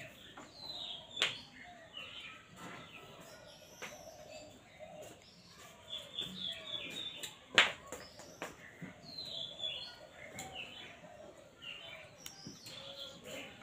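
Small birds chirping over and over in short, falling calls, with a knife clicking and scraping on a wooden board as it cuts through rolled dough. A sharp knock about seven and a half seconds in is the loudest sound.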